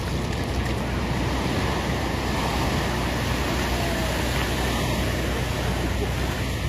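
Steady rushing of water, an even noise that holds constant without breaks or distinct impacts.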